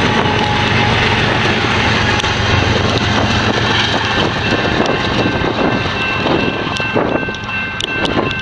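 A BNSF intermodal freight train rolling past at speed: a loud, steady rumble of steel wheels on rail, with thin, steady high-pitched ringing tones and occasional clicks over it.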